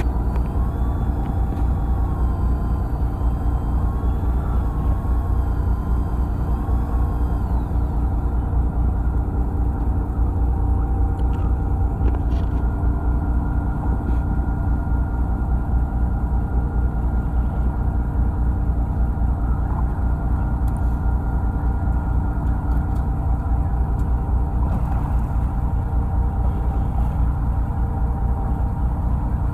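Fishing boat's engine running steadily, a continuous low rumble. A faint wavering whine rides over it for the first several seconds and stops about eight seconds in.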